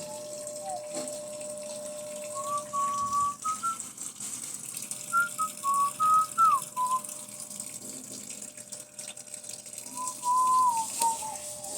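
A person whistling a tune in short stepped notes with small slides between them. Under it runs a steady hiss like running water, and a steady hum is heard in the first few seconds and again near the end.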